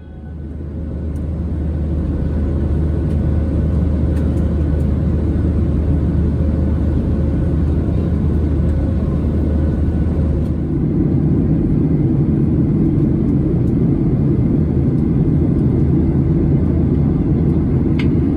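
Steady engine and airflow noise inside the cabin of a Boeing 737-700, fading in over the first couple of seconds. About ten seconds in, the noise changes character, with a low hum giving way to a fuller, higher rumble.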